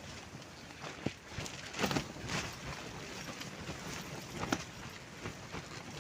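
Strong wind buffeting a large tent, the fabric walls flapping with irregular sharp snaps, the loudest about two seconds in and again at about four and a half seconds, over a steady rush of wind.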